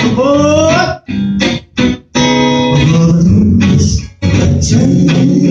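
Live band playing the song's instrumental opening, led by guitar, in short stop-start phrases with brief breaks between them.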